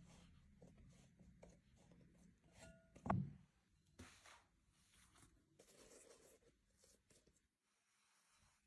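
Faint handling noises with small clicks and rustles, and one louder knock about three seconds in that rings briefly.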